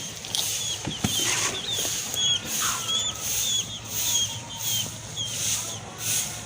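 Small birds chirping in short, quick notes, about two a second, over soft rustling and crunching that pulses at the same pace, as from a goat tearing and chewing grass.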